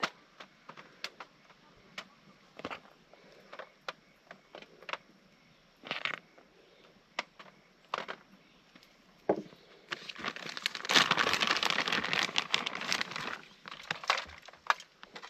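Scattered small clicks and crackles, then about three seconds of dense crinkling from about ten seconds in: a plastic food bag and tortilla chips being handled while nachos are layered.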